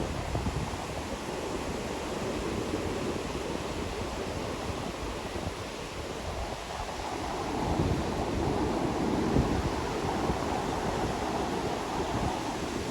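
Ocean waves breaking and washing up a beach, a steady rush of surf that swells to a louder wave about eight seconds in, with some wind noise on the microphone.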